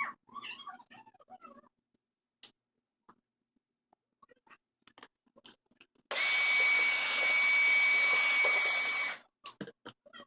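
A small electric motor-driven air tool runs for about three seconds, starting about six seconds in. It makes a loud rush of air with a steady high whine, between scattered light clicks.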